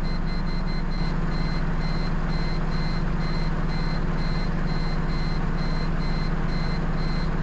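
A steady low vehicle drone with a short, high electronic beep repeating over it at one pitch: about four beeps a second at first, slowing to about two a second.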